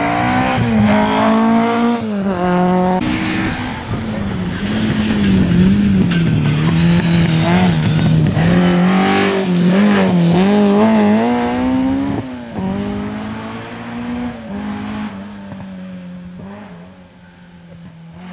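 Rally car engine revving hard, its pitch climbing and dropping sharply through several gear changes as the car comes past, loudest in the middle and fading away toward the end.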